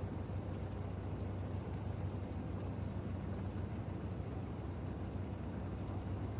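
Steady low harbour drone: a constant low hum with a soft wash of noise over it, unchanging and without distinct events.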